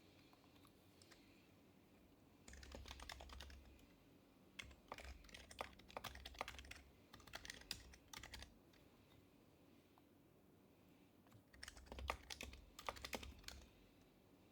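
Typing on an HHKB Professional Hybrid Type-S keyboard with its quiet Topre switches: three runs of keystrokes with pauses between, the first about two and a half seconds in, the last near the end.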